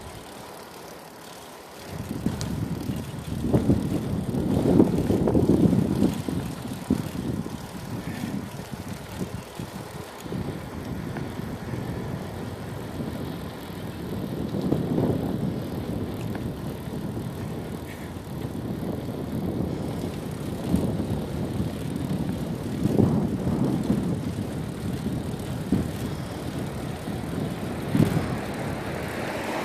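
Bicycle riding noise: a low rumble of wind and tyres on the road that swells and fades every few seconds, starting about two seconds in.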